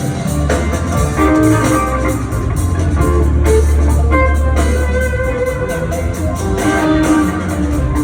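Live rock band playing an instrumental jam: electric guitar notes held over a steady bass line and drums.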